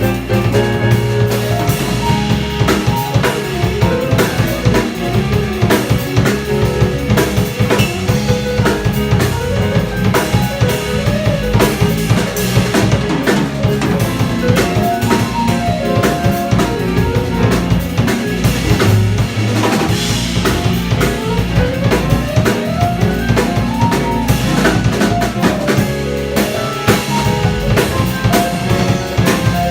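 Live jazz band of guitar, piano, bass and drum kit playing, with busy drumming on snare and bass drum and a melodic line winding up and down over a walking bass.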